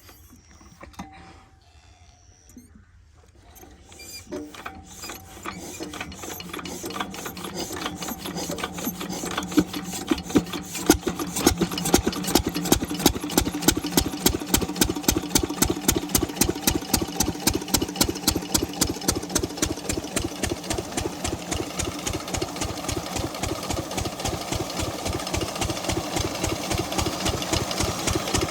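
Stationary diesel engine of an irrigation water pump set being started: after a few quiet seconds its knocking beat picks up about four seconds in, grows louder and quicker, and settles into a steady rhythmic running beat.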